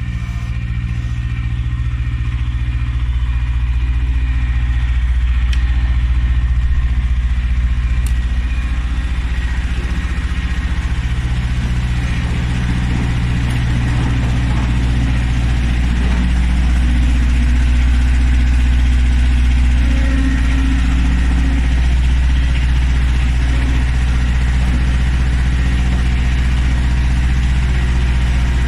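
Tractor diesel engine running steadily at a low, even speed, with a deep drone that swells slightly now and then.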